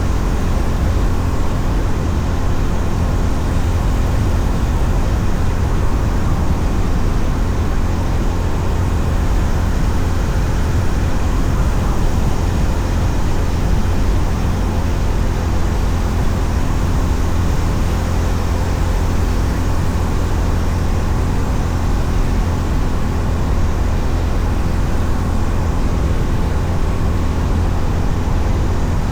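Honda CB350RS's air-cooled single-cylinder engine running steadily at cruising speed, under a heavy, even rush of wind and road noise. There is no change in engine speed.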